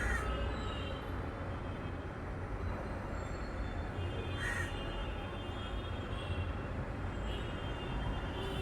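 Steady low rumble with a short, harsh bird call at the start and again about four and a half seconds in.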